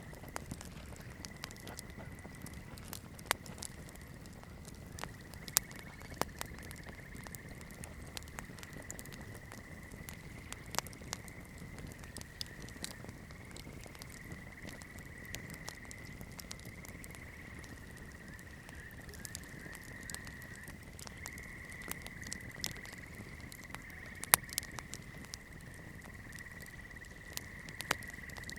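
Campfire crackling: burning wood giving scattered sharp pops and snaps over a soft low rush, with the loudest pop a few seconds before the end. A steady, thin high-pitched whine runs underneath.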